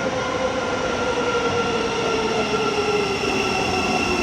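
Thameslink Class 700 electric multiple unit slowing into the platform: a steady electric whine from its traction equipment, one tone falling slowly in pitch as it slows, over the rumble of the train running in.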